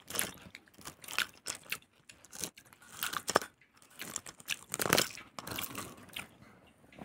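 A person chewing a crunchy peanut bar close to the microphone, with irregular crunches, the strongest a little after three seconds in and around five seconds in.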